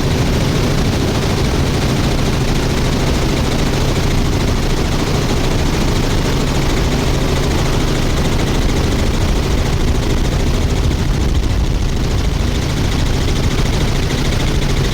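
Helicopter rotor and engine noise heard from aboard in flight: a steady low drone with a fast, even chop of the rotor blades.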